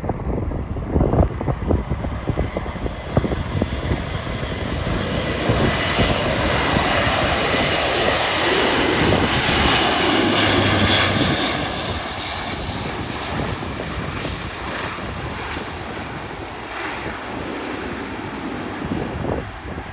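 Airbus A400M's four turboprop engines passing low overhead, the noise swelling to its loudest about halfway through and then fading away. Wind buffets the microphone in the first few seconds.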